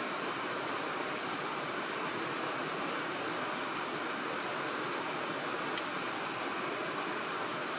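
Wood campfire burning with a steady hiss and scattered small crackles, and one sharp pop of burning wood a little before six seconds in.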